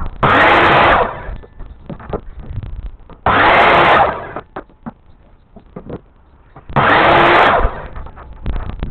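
Power drill running in three short bursts, each under a second and about three and a half seconds apart, spinning up and winding down as if driving screws, with knocks and clicks between.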